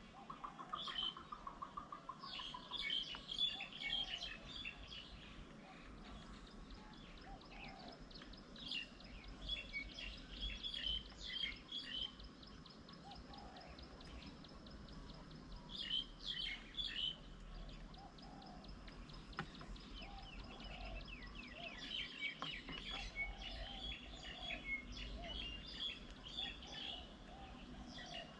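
Small birds chirping and twittering in short clusters, with a thin steady high whine running underneath for long stretches.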